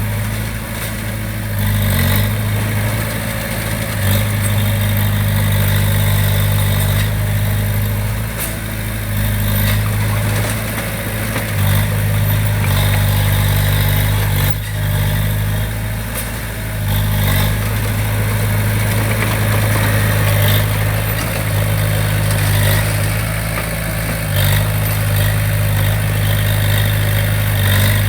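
Diesel engine of heavy construction equipment running steadily with a deep, even hum, with a few short dips and brief knocks along the way.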